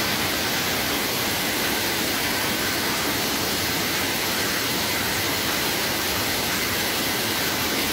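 Waterfall running strongly after heavy rain: a steady, even rush of falling water.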